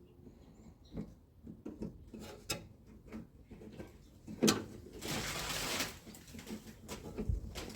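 Scattered small clicks and knocks of a hand working the lock rod and retaining clip inside a 1957 Chevy Bel Air's door, with a sharper knock about four and a half seconds in and a brief scraping rustle just after it.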